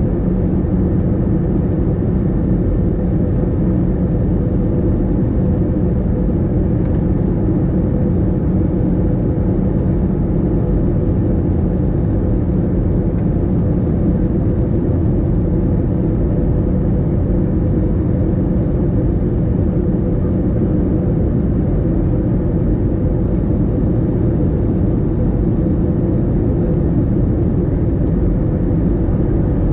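Steady cabin drone of an Airbus A321 airliner in flight: a constant, deep rushing noise with a faint steady hum, unchanging throughout.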